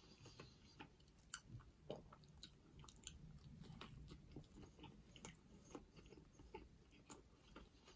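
Faint close-up chewing of a burger, with wet mouth clicks and a bite into the bun about four seconds in.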